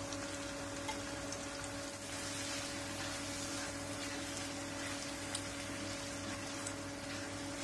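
Green chilli sambal with anchovies sizzling gently in oil in a stainless steel wok as a spatula stirs it, with a few light clicks of the spatula against the pan. A steady hum runs beneath.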